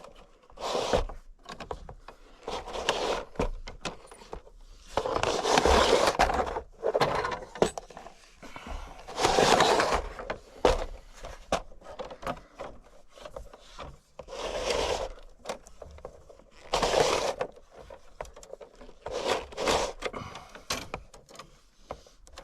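Irregular scraping and rubbing, in about a dozen rough strokes of around a second each: a fish tape being pushed and worked down through a drilled hole into the wall cavity.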